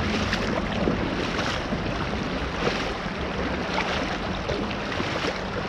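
Fast-flowing creek water rushing around a wader's legs, with a splash about every second as he steps through the current.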